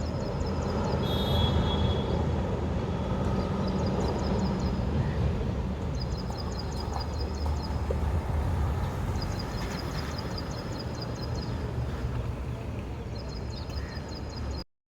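Outdoor ambience: a steady low rumble, with trains of rapid high-pitched chirps repeating every few seconds. The sound cuts off abruptly near the end.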